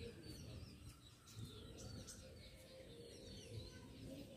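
Near silence, with faint, short bird chirps that slide down in pitch, scattered throughout.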